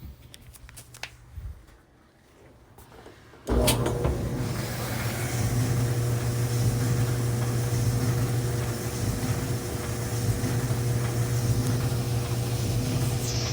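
A GE electric clothes dryer starting up about three and a half seconds in, after a few clicks, then its motor and drum running steadily with a strong low hum.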